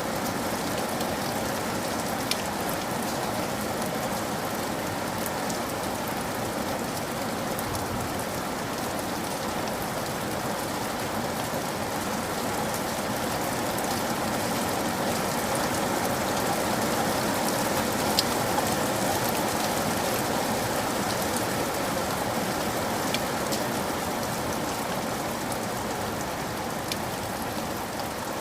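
Steady rainfall on a surface, an even hiss with occasional sharper individual drop hits.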